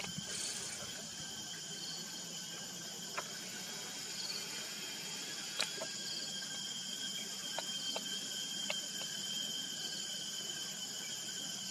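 Insects chirring in a steady chorus: a continuous high drone with short repeated chirps over it. A few sharp clicks stand out around the middle.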